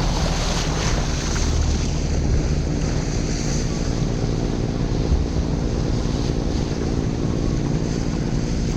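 Motorboat engine running at a steady drone, mixed with water rushing past and wind buffeting the microphone.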